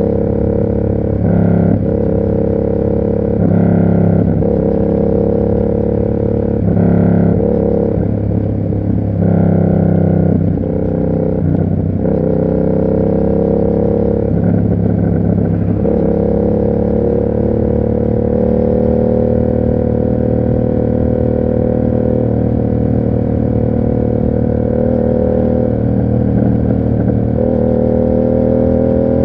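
Yamaha MT-07's 689 cc parallel-twin engine running through an SC Project aftermarket exhaust while riding. Over roughly the first half the revs repeatedly rise and drop with throttle changes; after that the engine holds a steady note that climbs slowly.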